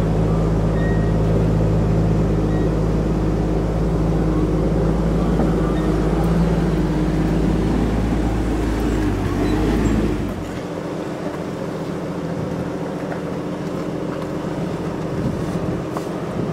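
Jeep Wrangler TJ engine running as the vehicle drives, heard from inside the cabin: a steady drone that drops to a lighter, thinner sound about ten seconds in.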